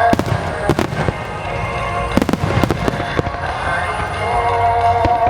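Fireworks shells bursting in quick succession, sharp bangs and crackle, over music with held melodic notes.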